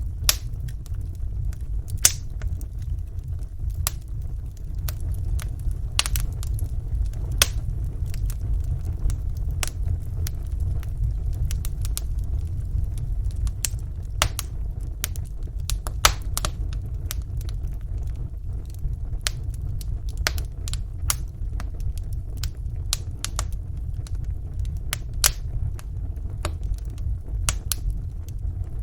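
Wood fire burning in a fireplace: a steady low rumble of the flames with small crackles and pops at irregular intervals, a few louder snaps among them.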